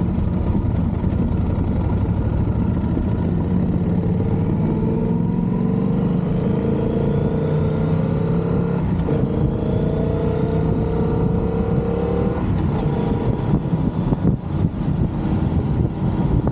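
Motorcycle engine accelerating through the gears: its pitch climbs, drops at a gear change about nine seconds in, climbs again and drops at another shift about twelve and a half seconds in.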